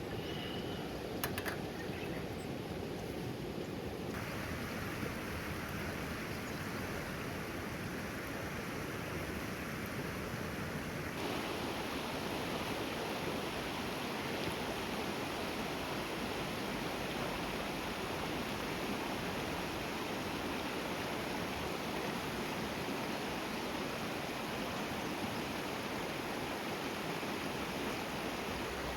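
Steady rushing hiss of rain and flowing river water. The hiss grows brighter and fuller twice, a few seconds in and again about a third of the way through.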